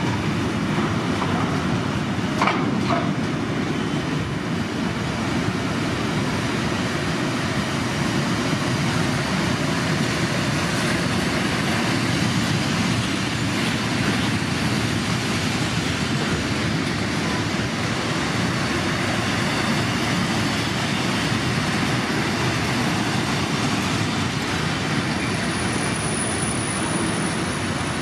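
Freight train rolling past, a steady rumble of wagons on the rails with a couple of sharp clicks about two and a half seconds in.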